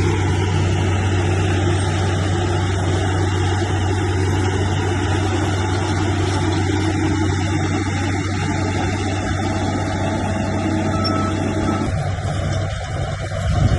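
Heavy diesel engine of earthmoving machinery, running steadily with a deep, constant hum. The sound thins out about twelve seconds in, and there is a brief surge near the end.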